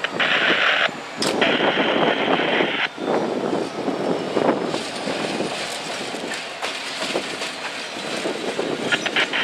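Freight train cars rolling past, a steady noisy rumble of wheels on rail.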